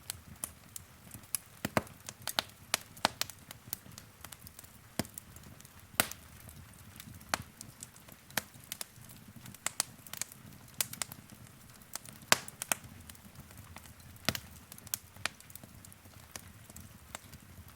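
Wood fire crackling: irregular sharp pops and snaps, several a second with some louder ones, over a low steady rumble of burning.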